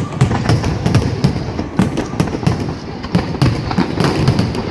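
Fireworks display going off in a dense, rapid run of bangs and crackling reports, several a second, over a continuous rumble.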